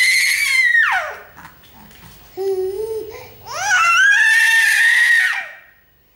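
A pet bird calling loudly: two long, held, piercing calls, the first ending in a sharp downward slide about a second in, the second starting near the middle and lasting about two seconds, with a shorter, lower call between them.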